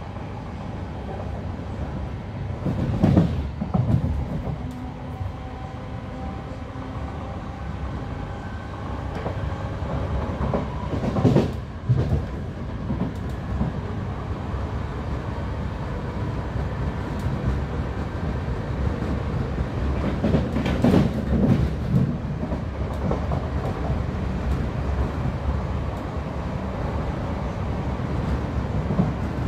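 Class 323 electric multiple unit running at speed, heard from inside the carriage: a steady rumble of wheels on rail, broken three times by bursts of heavier wheel clatter.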